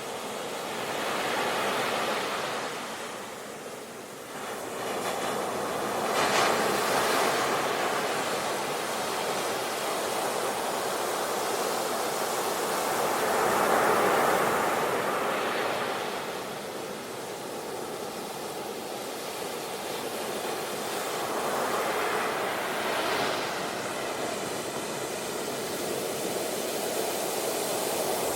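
Sea waves breaking on the shore: a constant wash of surf that swells into a new breaking wave every several seconds and then falls back.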